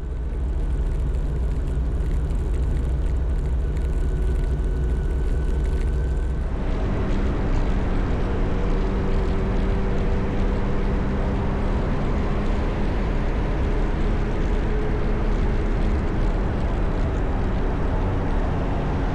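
Motorcycle engine running with road noise as the bike is ridden along; the sound changes abruptly about six and a half seconds in.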